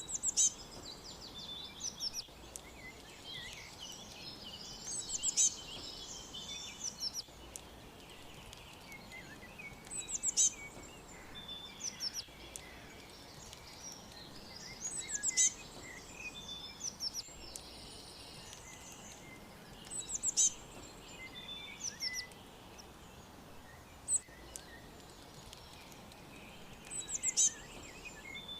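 Several small birds chirping and trilling over a steady background hiss, with a loud cluster of high, quick chirps recurring about every five seconds.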